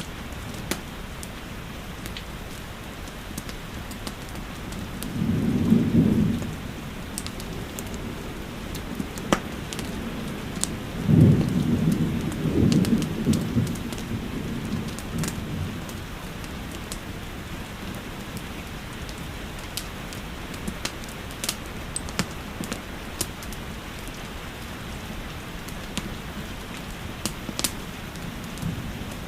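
Steady rain with two low rumbles of thunder, one about five seconds in and a longer one from about eleven to fourteen seconds, over scattered sharp crackles of a wood fire.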